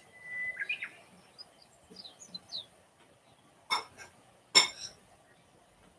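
Wild birds calling: a held whistle note running into chirps, then several quick falling chirps, then two loud short calls just under a second apart, the loudest sounds.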